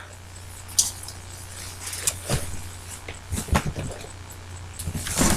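Scattered light knocks and clicks of craft supplies being handled and set down on a table, over a steady low electrical hum.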